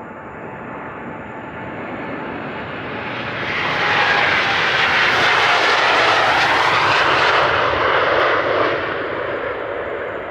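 Turbofan engines of a large jet airliner at takeoff power passing by, building to a loud peak about four seconds in and fading toward the end, with a whine that slides down in pitch as it goes past.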